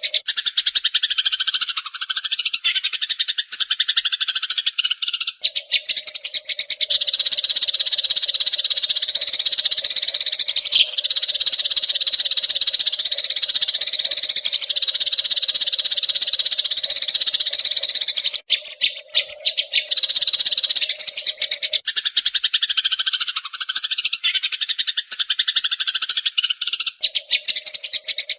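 A flock of Eurasian tree sparrows chirping and chattering continuously in a dense, unbroken chorus. A steady lower note in the background starts and stops in long stretches.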